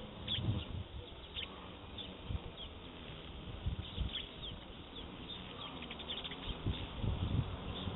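Small birds chirping in short, high calls that come thicker near the end, over an irregular low rumble.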